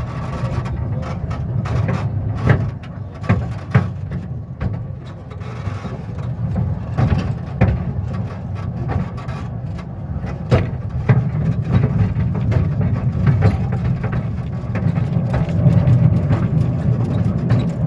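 Small narrow-gauge railway locomotive's engine running steadily, with irregular sharp clanks and knocks from the train throughout.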